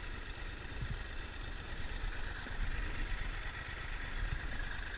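Triumph Tiger 1200's three-cylinder engine running steadily at low revs, a low rumble with an even hiss over it.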